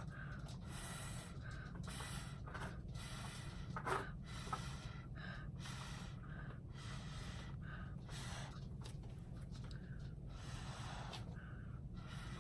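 Repeated short puffs of breath blown through a drinking straw, one every half second to a second, pushing wet acrylic pour paint across a board. A steady low hum runs underneath.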